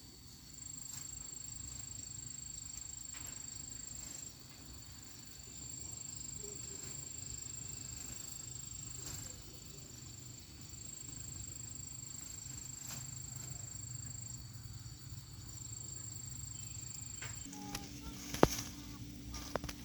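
Steady high-pitched insect chirring in the background over a low rumble. Near the end a low steady hum starts, and a sharp knock comes shortly after it.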